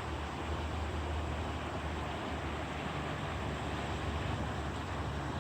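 Steady rush of a creek in flood, running high after heavy rain; an even, unbroken noise.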